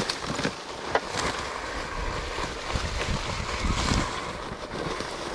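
Wind rushing over the microphone and the rumble of knobby tyres and chassis on a dirt trail as a KTM Freeride E-XC electric dirt bike rides along, with a few sharp knocks; there is no engine note, since the bike is nearly silent.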